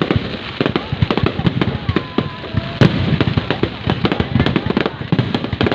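Fireworks display: a dense run of bangs and crackling pops, several a second, with one louder bang near the middle.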